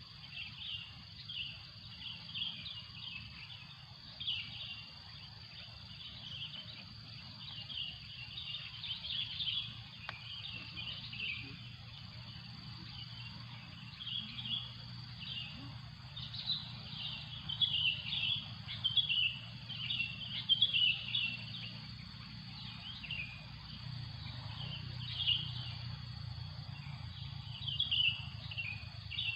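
Many short bird chirps, busiest about two-thirds of the way through, over a steady high insect drone.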